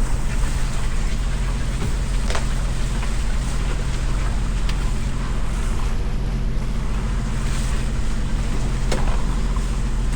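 A boat engine running steadily with wind and water noise, with a few sharp knocks.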